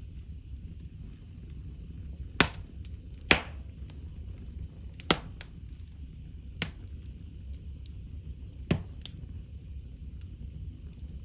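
Wood fire in a fireplace crackling: a steady low rumble of the flames with six sharp, separate pops scattered through, the loudest about two and a half and three and a half seconds in.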